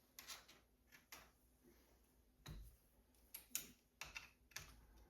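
Near silence with faint scattered clicks and light taps, about eight over the few seconds, over a faint steady hum.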